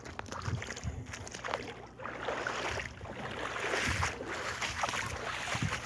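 Waves washing on the shore, a surge swelling about four seconds in and easing off, with wind buffeting the microphone.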